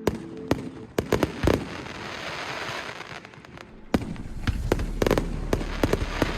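Fireworks going off: a quick series of sharp bangs, then a crackling hiss, then another cluster of bangs with a low rumble underneath about four seconds in.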